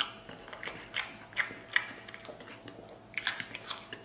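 A person chewing and biting lamb rib meat close to the microphone: a run of short, sharp mouth clicks and smacks, about three a second and unevenly spaced.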